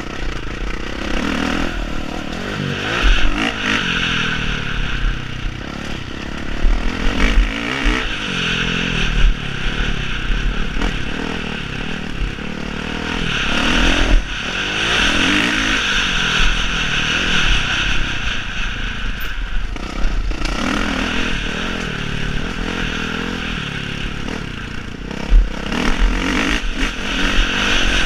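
Motocross bike engines revving hard, the pitch rising and falling again and again as the bikes accelerate and shift.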